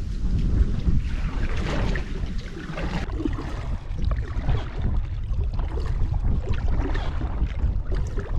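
Wind buffeting the microphone in a low rumble, with water splashing and dripping from kayak paddle strokes.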